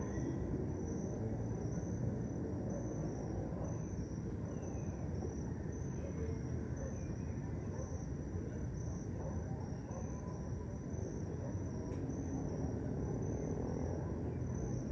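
Crickets chirping in a steady, even rhythm of about two pulses a second, over a constant low rumble of distant city traffic.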